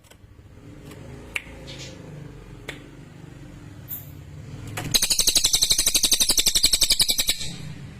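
A cililin songbird giving a loud, fast, high-pitched trill of rapidly repeated notes lasting about two and a half seconds, starting about five seconds in. Before it there is a low background hum with a few sharp clicks and one brief very high note.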